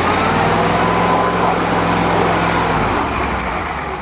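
Old Ford truck's engine running at steady revs under a broad rushing noise. The engine note drops away a little under three seconds in.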